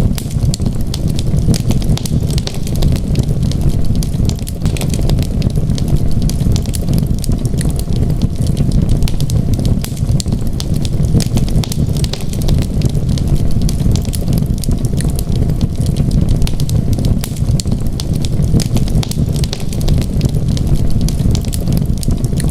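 Wood fire burning in a fireplace, with a steady low rumble of flames and frequent small, sharp crackles and pops.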